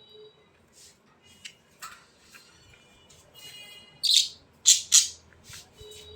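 Birds calling: a few short chirps, then three loud, harsh squawks between about four and five seconds in.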